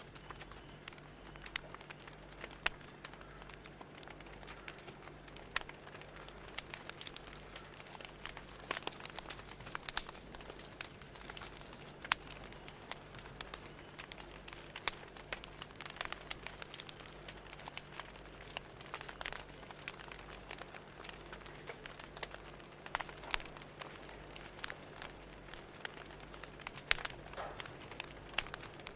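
Wood fire crackling: irregular sharp pops and snaps, several a second, over a faint steady low hum.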